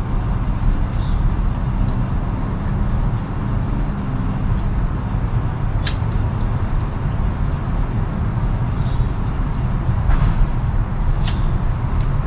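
Steady low outdoor rumble, with two sharp clicks about six and eleven seconds in.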